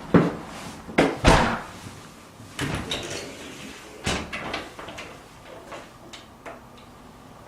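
A door being opened and handled indoors: a string of knocks and clicks, the loudest in the first second and a half, then lighter clicks trailing off.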